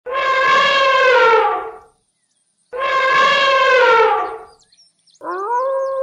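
Elephant trumpeting: two long brassy calls of about two seconds each, the pitch sagging at the end of each. Near the end a wolf howl starts, rising and then holding steady.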